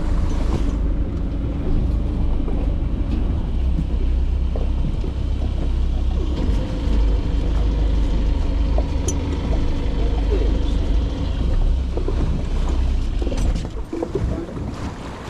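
Boat engine running with a steady hum over a heavy low rumble; the rumble eases off near the end.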